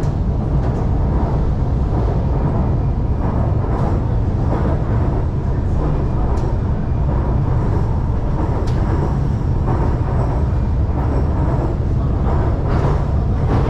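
Shanghai Metro Line 2 train running between stations: a steady low rumble of wheels on rails with running noise above it and a few faint clicks.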